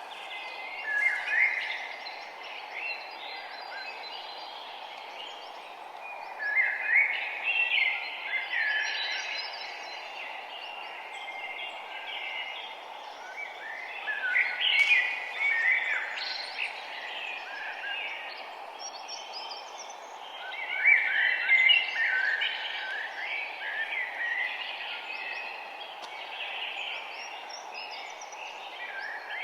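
Several songbirds chirping and singing in bouts, loudest about a second in, around 7 seconds, around 15 seconds and from about 21 seconds, over a steady background hum of outdoor noise.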